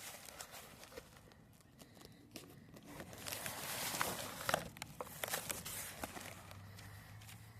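Packaging being handled and opened by hand: scattered crinkles and clicks, then a louder stretch of rustling with sharp crackles in the middle.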